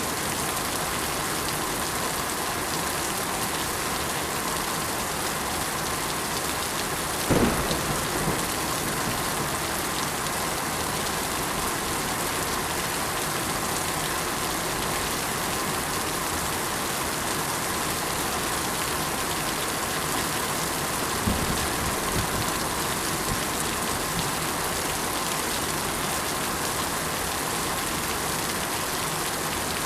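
Steady rain, a dense even hiss, with two brief low thuds, the first about a quarter of the way in and a softer one about two-thirds through.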